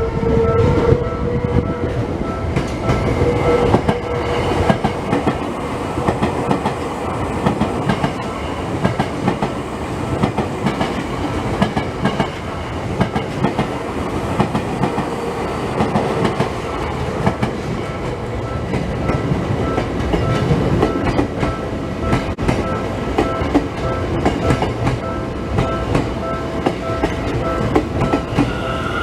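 Electric commuter trains, subway through-service trains among them, passing each other over a level crossing: a continuous rattle of wheels clacking over the rails. Through it the crossing's warning bell rings on at a steady, even beat.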